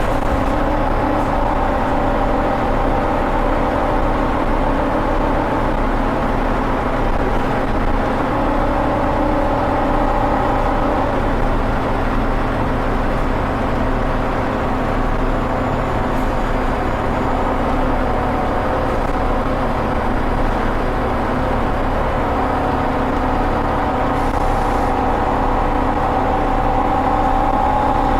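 Scania OmniCity bus engine working hard, heard loud from the back seat over the rear-mounted engine. The engine note holds steady with a gentle drift in pitch and rises slightly near the end, over a low road rumble.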